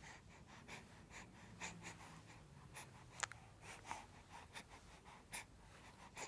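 Near silence with a baby's faint, scattered breaths and small mouth sounds, and one sharp click about three seconds in.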